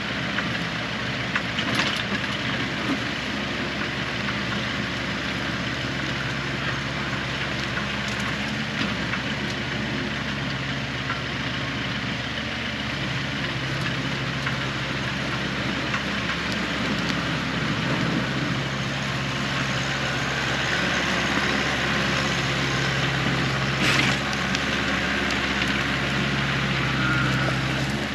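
An engine running steadily, a little louder in the last third, with a couple of sharp knocks or clicks over it.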